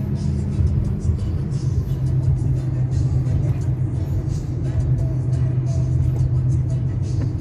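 Steady car road and engine rumble heard while driving, with music playing along with it.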